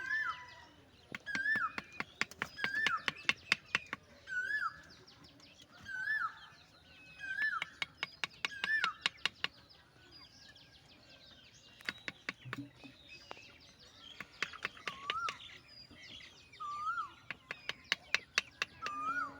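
A bird chirping over and over, one short call about once a second, with bursts of quick sharp clicks in between.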